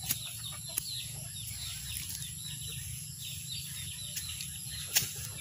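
Chicks peeping: a continuous run of short, high chirps, each falling in pitch, with a few sharp clicks.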